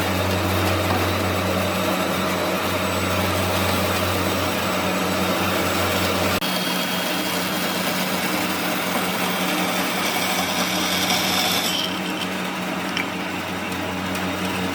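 A power tool running steadily at full speed, switched on just before, with a low motor hum whose deepest part drops away about six seconds in.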